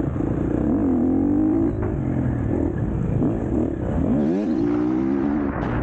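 KTM 250 SX-F four-stroke motocross bike engine revving hard, its pitch rising and falling with the throttle; about four seconds in the revs drop sharply, then climb again.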